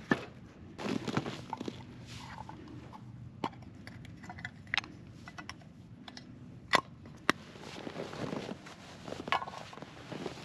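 Several sharp knocks or snaps, loudest near the start and about seven seconds in, between stretches of crunching steps in snow while gear and firewood are handled.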